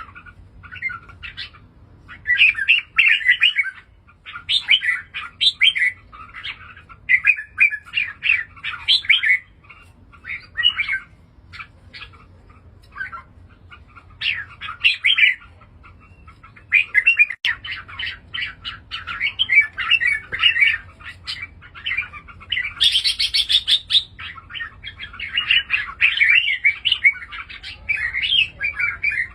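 Red-whiskered bulbul singing: short, bubbling warbled phrases of about a second each, repeated with brief pauses. Near the two-thirds point comes a brief, harsher, higher-pitched burst.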